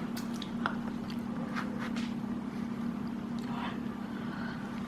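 Light clicks and knocks of dishes and food containers being handled and set down on a table, scattered through, over a steady low hum.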